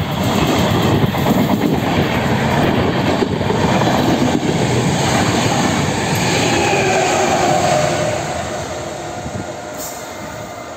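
Passenger train passing close by: a steady loud rush of wheels on rails, with a wavering wheel squeal from about six to eight seconds in, then dying away as the train moves off.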